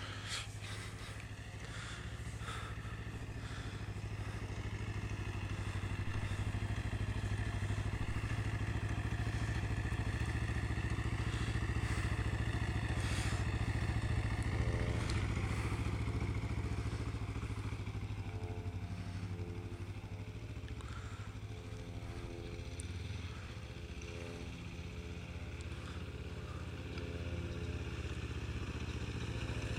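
Kawasaki Ninja motorcycle engine running steadily as the bike is ridden, growing louder over the first half and then fading somewhat.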